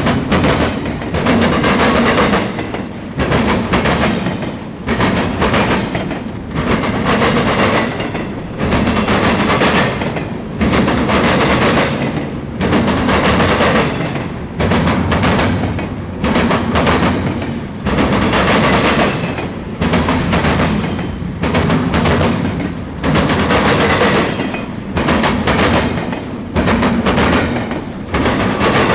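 Intermodal freight train cars rolling past at speed: a steady rumble with sharp clicking of wheels over rail joints, swelling and easing in a regular rhythm about every two seconds.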